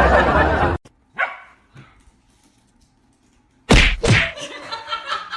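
Loud dense sound that cuts off abruptly under a second in. Near quiet follows, broken by a short faint sound. Then, about three and a half seconds in, a dog barks twice in quick succession.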